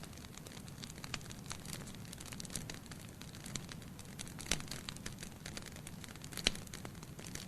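Logs burning in a fireplace: a steady low hiss of flames under frequent small crackles, with two louder pops about four and a half and six and a half seconds in.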